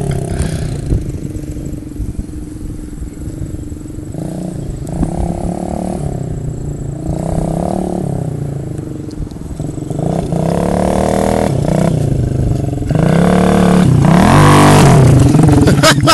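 Honda pit bike's small single-cylinder four-stroke engine revving up and down as the bike is ridden, the pitch repeatedly climbing and dropping. It grows much louder about three-quarters of the way through and revs hardest near the end.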